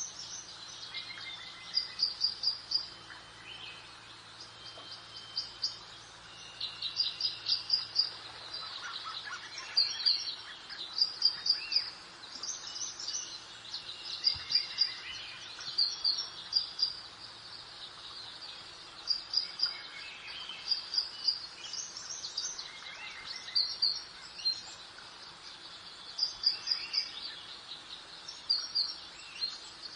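Songbirds singing: quick runs of high, short chirps repeated every second or two, several birds overlapping, over a faint steady hiss.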